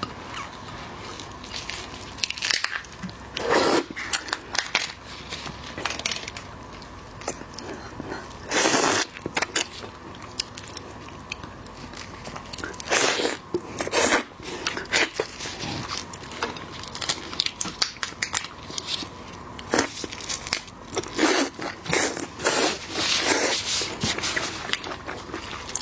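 Close-miked eating of seafood: irregular crunching bites and chewing, with a few louder, longer bursts of noise among them.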